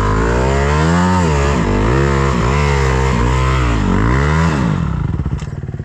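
Dirt bike engine revving hard in repeated surges, about five rises and falls in pitch, then easing off near the end. The rear wheel is fighting for grip on slippery mud.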